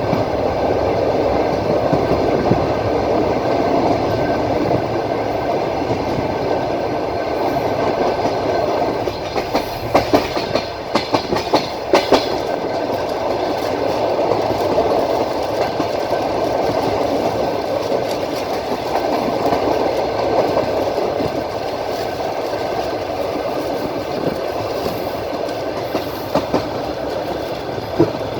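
Passenger train running, heard from inside the carriage: a steady rumble of wheels on rail. A quick run of sharp wheel clacks over the rail joints comes about a third of the way in, with a couple more near the end.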